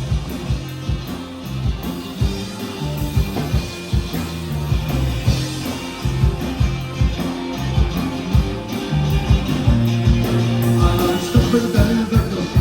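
Live rock band playing: guitar and bass over a steady drum beat, with little singing in this passage.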